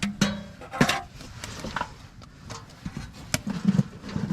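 A few sharp knocks and clicks at a campfire, with light clatter between them and a short low hum near the end.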